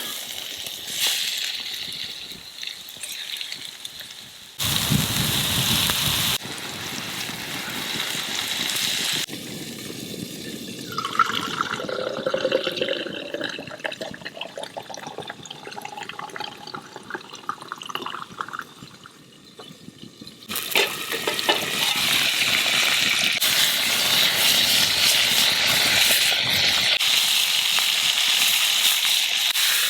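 Food, bacon by the context, sizzling in a pan over a campfire, heard in a series of short cut-together clips. The sizzle is steadiest and loudest over the last third, and a few sliding tones sound in the middle.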